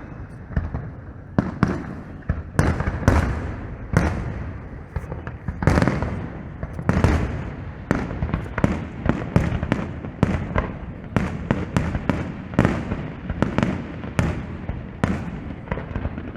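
Fireworks display: a dense, irregular barrage of bangs and booms, several a second at times, each trailing off in a short rumble.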